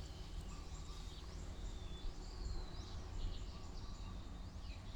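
Quiet background: a low steady hum with a few faint, high bird chirps.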